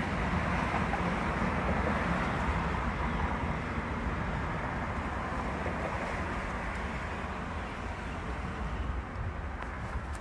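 Steady rushing wind ahead of a thunderstorm, easing off gradually toward the end.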